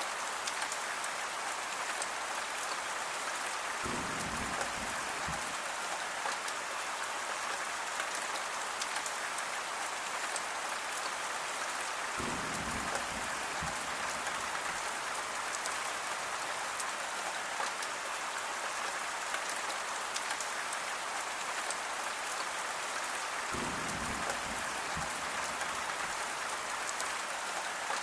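Steady, dense rain pattering on a surface. Three times, a brief spell of low, dull knocks rises under it.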